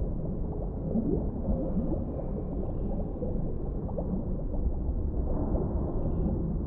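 Underwater ambience: a steady low rumble with short rising gurgles scattered through it, thickest in the first half.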